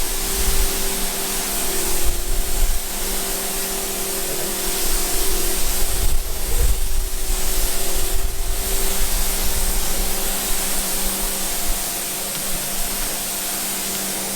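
A pressure washer running: a steady motor hum under a loud hiss of spraying water, swelling a few times as the jet is moved.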